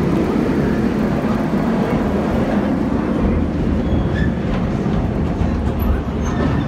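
Cedar Point's narrow-gauge park train rolling along the track, heard from aboard: a steady low rumble and rattle of the cars and wheels on the rails.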